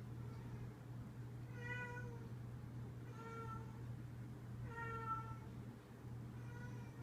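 A domestic cat meowing four times, each call about half a second long, over a steady low hum.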